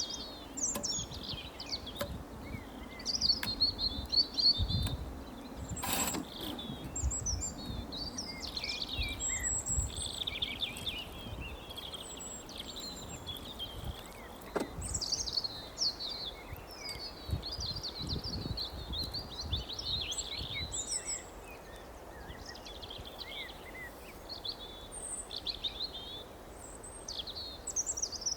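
Small songbirds chirping and twittering, several calls overlapping continuously, with scattered low rumbles and a couple of sharp clicks underneath.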